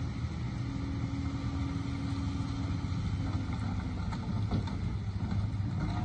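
Diesel engine of heavy earthmoving machinery running steadily, with a steady whine over the engine hum that fades out about three seconds in.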